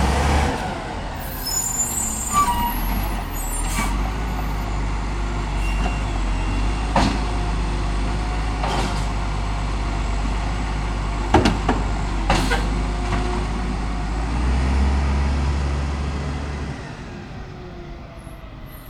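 Garbage truck engine running, with a series of sharp clanks spread out over the sound and a brief high squeal about a second in. The engine sound fades away near the end.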